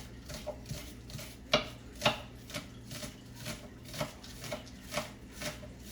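Knife chopping green onions on a cutting board: steady strokes about two a second, with two louder strikes about a second and a half in.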